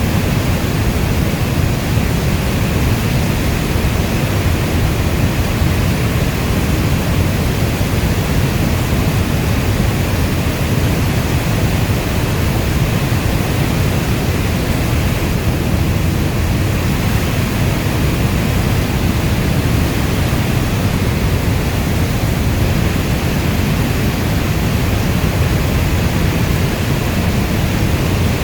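Heavy rainstorm: a steady, unbroken rushing hiss, weighted toward the low end.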